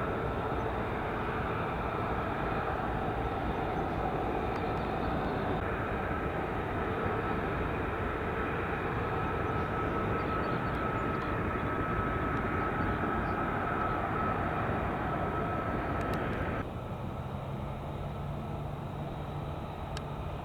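Jet aircraft engine running steadily at a distance, a continuous rumble with a thin high whine, changing abruptly twice as the footage cuts.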